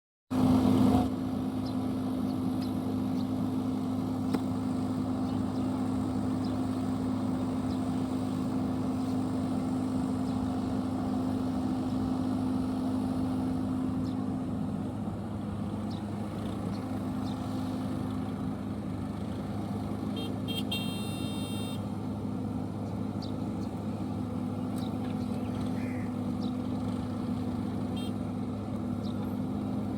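JCB tractor's diesel engine running steadily, its pitch dropping a little about halfway through. A brief high-pitched beep sounds about twenty seconds in.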